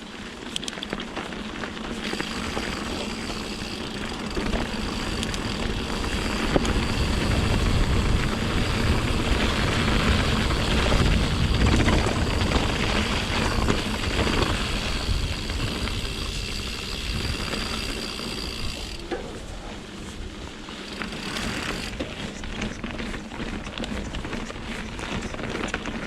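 Mountain bike on Pirelli Scorpion tyres rolling along a rocky trail: a steady rush of tyre and ride noise, loudest in the middle, with a high steady buzz through most of it.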